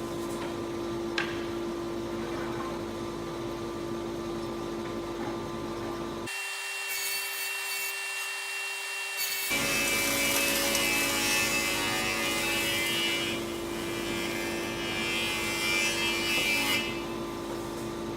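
Thickness planer running with a steady hum while timber feeds through its cutterhead. The cutting hiss is louder for several seconds in the second half. Partway through, the deep part of the sound cuts out abruptly for about three seconds, then returns.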